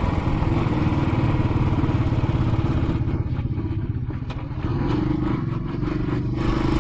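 Royal Enfield Classic 500's single-cylinder engine running while riding, with a steady low engine note and a hiss of wind. About halfway through the hiss drops away and the sound eases for a few seconds, then returns near the end.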